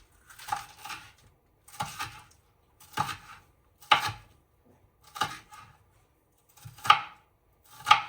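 Knife chopping onion on a cutting board, in slow separate strokes about once a second, each with a short clack.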